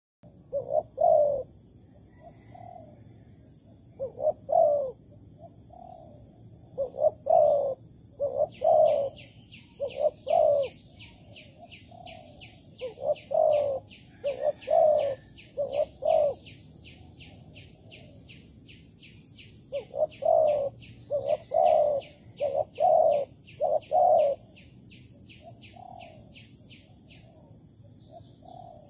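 Spotted dove cooing: short phrases of three or four low coo notes, repeated again and again with pauses between. From about eight seconds in, a high, evenly pulsed chirping runs beneath the coos, a few pulses a second.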